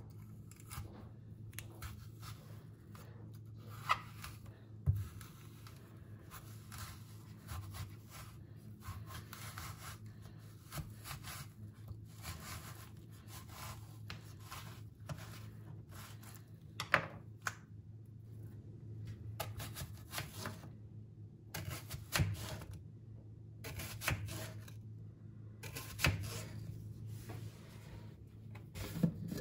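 Quiet handling noises: irregular rubbing and rustling with a few sharp light knocks or clicks, over a faint steady hum.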